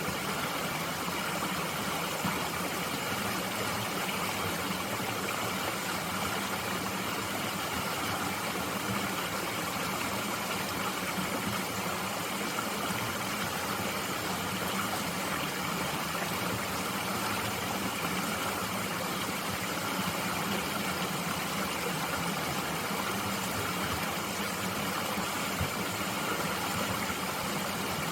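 Mountain stream flowing steadily over rocks, an even, unbroken rush of water.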